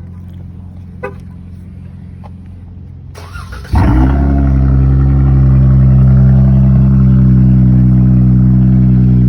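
Cold start of a 2021 Dodge Charger SXT's 3.6-litre V6 through a straight-piped exhaust with resonators: the starter cranks briefly about three seconds in, the engine catches loudly and settles into a loud, steady fast idle. Before the start another engine idles quietly.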